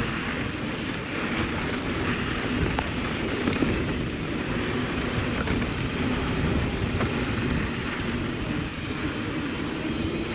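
Mountain bike descending fast on a dirt trail: wind rushing over the microphone with the tyres rolling steadily underneath, and a few small clicks and knocks.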